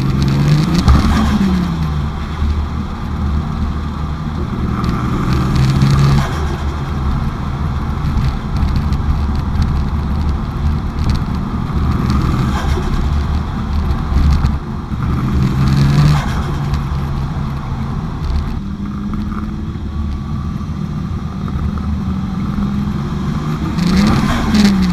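Toyota 1JZ-GTE VVT-i turbocharged straight-six in a Nissan Silvia S15, running loud and revving up and dropping back in pitch several times, with a steady low rumble under it.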